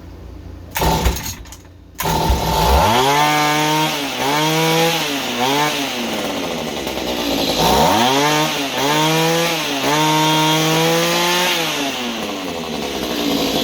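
Mantis mini tiller's small two-stroke engine pull-started with a couple of quick cord pulls about a second in, catching about two seconds in and then revving up and down again and again in pitch. It will not settle to a steady idle: the rebuilt carburetor's idle still needs adjusting.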